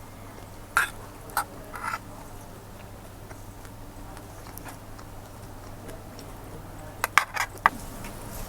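A few sharp clicks and knocks, three about a second in and a quick cluster near the end, over a steady low hum.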